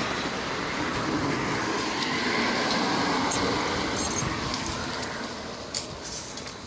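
Road traffic: a vehicle's steady noise going by, fading away over the last two seconds, with a few small clicks near the end.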